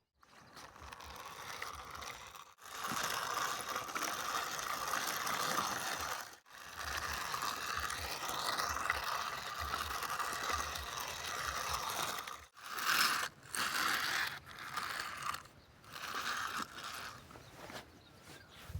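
Toy vehicle's plastic gears and mechanism whirring and clicking as it is worked, in several long stretches cut by abrupt short gaps, then in shorter bursts near the end.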